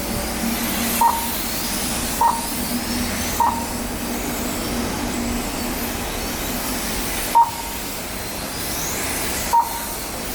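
Five short, sharp electronic beeps at irregular intervals, typical of a lap-timing system registering bikes crossing the line. Under them, the high whine of electric R/C racing motorcycles rises and falls as they lap the track.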